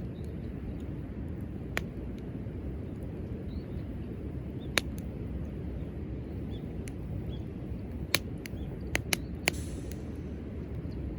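Wood campfire burning: a steady low rushing with a few sharp crackles and pops, three of them in quick succession near the end.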